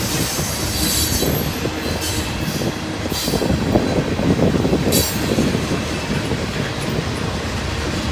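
Train noise: a steady, uneven rumble with rail clatter, mixed with wind buffeting the microphone.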